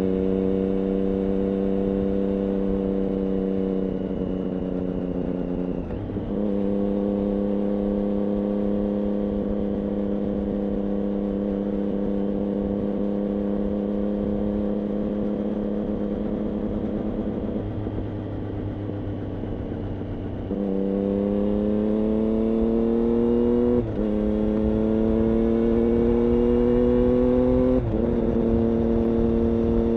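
Triumph Daytona 675 inline-three engine running through an IXIL aftermarket exhaust, holding a steady note for long stretches while under way. Past the middle the note eases off briefly, then rises twice under acceleration, each rise cut by a sudden drop in pitch as the rider shifts up a gear.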